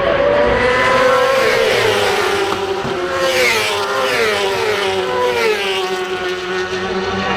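Superbike racing motorcycles at speed on the circuit, several engines at once, their pitch rising and falling in steps through gear changes.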